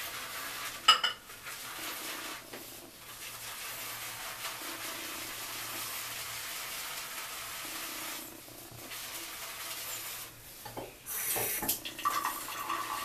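Bathroom tap running steadily into a sink, with a sharp knock about a second in and a spell of swishing and clinking near the end.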